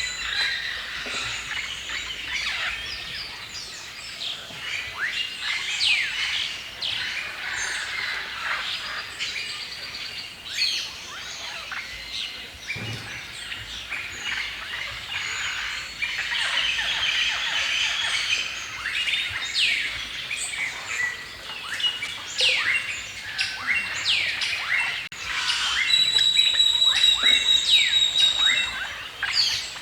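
Many songbirds chirping and singing at once in overlapping, quick rising and falling calls. Near the end, one bird gives a louder, high, even-pitched trill that repeats for a few seconds.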